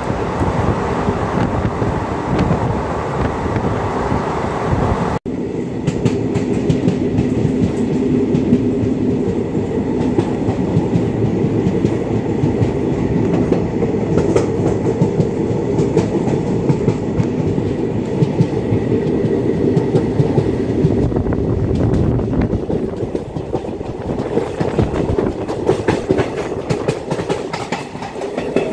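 Passenger train running at speed, heard from inside the coach at an open door or window: a steady rumble of wheels on rail with rapid clickety-clack over the rail joints. The noise briefly drops out about five seconds in and comes back deeper.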